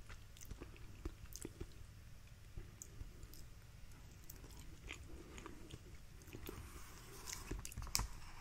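Faint chewing and mouth sounds of a person eating soft sweet potato casserole, with scattered small clicks. Near the end a wooden utensil clicks against a plastic plate as it scrapes up food.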